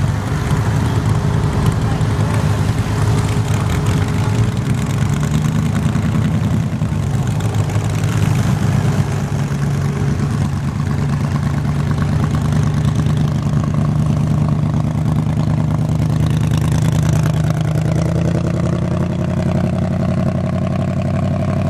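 Garden tractor engine running hard through a pull, pitch climbing over the last few seconds.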